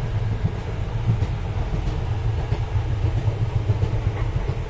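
Passenger train carriage running along the track, a steady low rumble with no clear rhythm.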